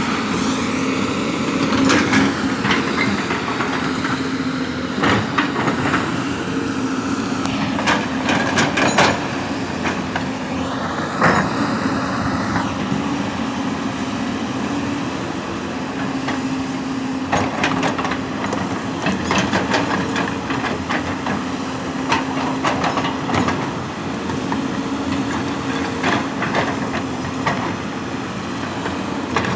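Heavy diesel construction machine running steadily, its engine note holding an even pitch, with clusters of sharp metallic knocks and clanks coming and going over it.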